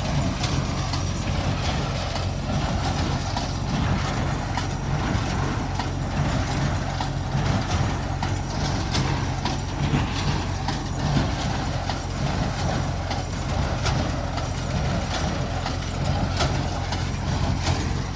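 Tractor engine running steadily under load while pulling a New Holland 276 Hayliner square baler, with the baler's repeated mechanical knocks and clatter over the engine.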